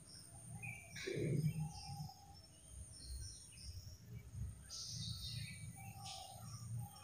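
Faint bird chirps and short whistled notes, several similar phrases repeating, over a low steady background hum.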